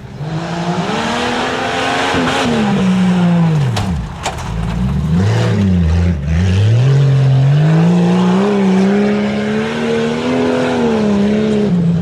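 A competition 4x4 truck's engine revving hard under changing throttle. Its pitch rises, drops steeply about four seconds in with a couple of sharp knocks, dips twice more, then climbs and is held high before falling near the end.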